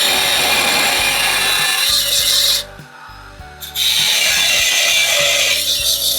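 Angle grinder grinding steel: two long, steady rasping passes of about three seconds each, broken off sharply for about a second between them.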